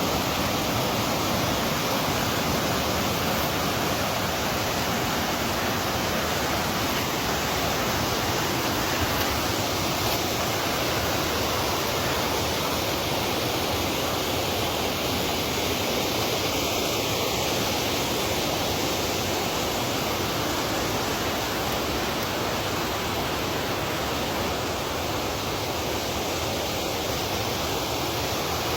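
Steady, unbroken rushing noise at an even level throughout.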